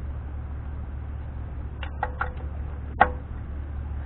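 A few light metallic clicks, then one sharp click with a brief ring about three seconds in, from a torque wrench tightening the outer lock nut of a Dana 44 front wheel hub to 50 pounds, over a steady low hum.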